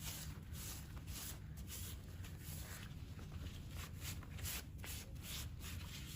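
Soft, irregular rubbing and rustling from hands working on bare feet during a foot peel treatment, a quick scratchy stroke every fraction of a second over a low steady hum.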